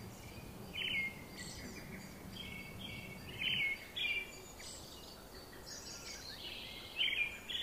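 Birds chirping outdoors: a string of short, high chirps repeating every half second or so, with a few closer together near the end.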